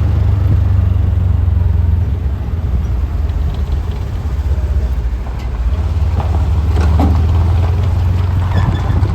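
A vehicle on the move: a steady low rumble of engine and road noise, with scattered knocks and rattles in the last few seconds.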